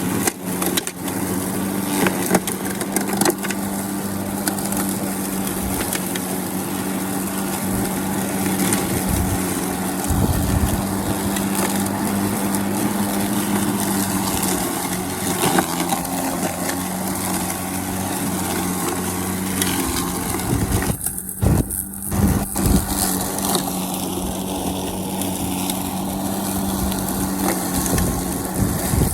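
Snapper 82-volt battery-electric push mower running steadily, its blade cutting thick grass with scattered crackles and knocks from twigs and debris.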